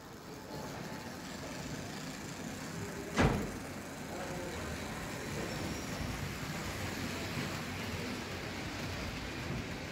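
Märklin H0 model trains running on metal M-track: a steady rolling rattle of coaches passing, with one sharp clack about three seconds in.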